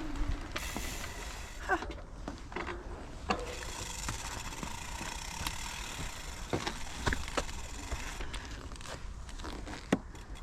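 Bicycle freewheel hub ticking as the bike rolls without being pedalled, with scattered clicks and knocks.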